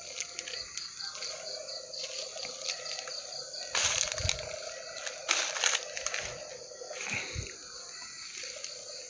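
Night insects, crickets among them, chirring steadily in high pitch. Two brief rustling noises come in the brush, about four seconds in and again a second and a half later.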